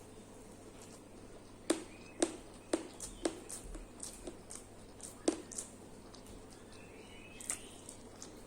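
A person chewing food close to the microphone: a string of sharp, short mouth clicks and crunches, thickest in the first few seconds, with a last one near the end.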